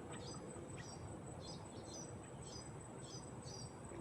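Bird chirping in short, sharp high notes about twice a second, over a steady high-pitched insect drone.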